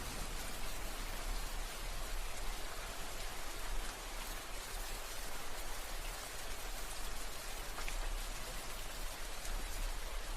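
Steady rain falling, a continuous hiss with scattered individual drop ticks and a low rumble underneath.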